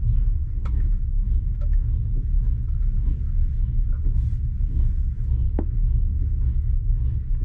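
Passenger train carriage rolling out of a station, heard from inside: a steady low rumble with a few sharp clicks.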